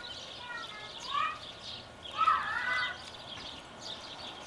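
Domestic turkey gobbling: two short warbling calls, the second and louder one about two seconds in.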